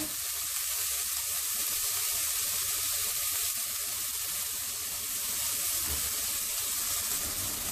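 Ground chili, shallot, garlic and turmeric spice paste sizzling steadily as it is sautéed in a wok and stirred with a wooden spatula, being cooked until fragrant.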